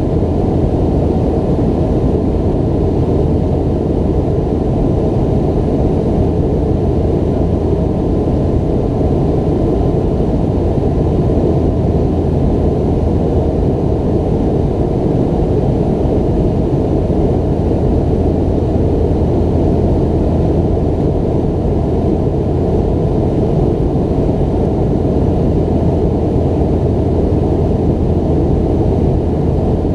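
Steady jet engine and airflow rumble heard inside the cabin of a McDonnell Douglas MD-90-30, whose rear-mounted IAE V2500 turbofans sit close behind the seat. It is a loud, even rumble with a low hum underneath, holding level throughout.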